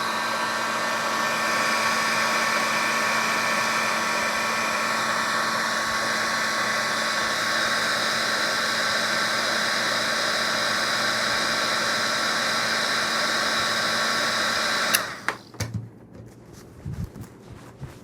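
Heat gun running steadily, a whine over a rush of air, heating a kydex holster to soften it for reshaping. It switches off suddenly about fifteen seconds in, followed by a few light handling knocks.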